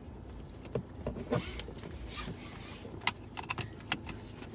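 Steady low rumble of a vehicle cabin. A handful of sharp clicks and knocks come about a second in and again between three and four seconds in, from objects being handled.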